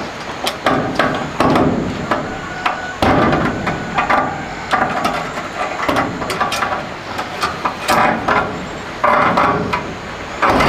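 Hammer blows on wood: an irregular series of sharp knocks, some coming in quick flurries of several strikes.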